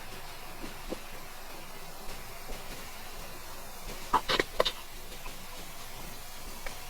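Close-miked chewing of soft, slippery lamb tail fat: a few faint wet mouth clicks, then a cluster of sharper smacks about four seconds in, over a steady hiss.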